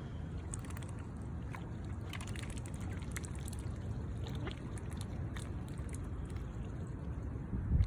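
Wind rumbling on the microphone over water splashing and trickling, with many small, quick splashes scattered through.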